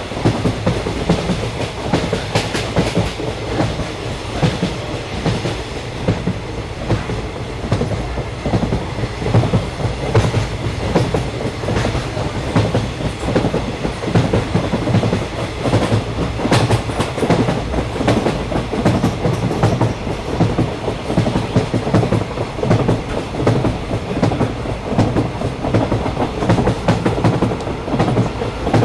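Train running along the track: a steady rumble with the clickety-clack of wheels over the rails. A couple of louder knocks come about two seconds in and near the middle.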